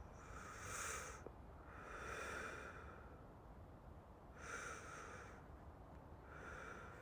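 A man breathing slowly and deeply close to the microphone, four soft breaths in and out, as if settling into sleep.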